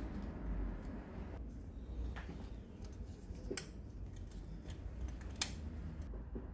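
Two sharp clicks, about two seconds apart, with a few fainter ticks, over a low steady hum.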